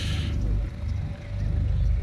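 Classic cars driving past with a low, steady engine rumble. There is a brief hiss right at the start.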